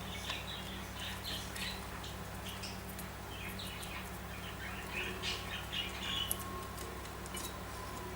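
Budgerigars chattering in soft, quick chirps and warbles, with a few sharp clicks among them.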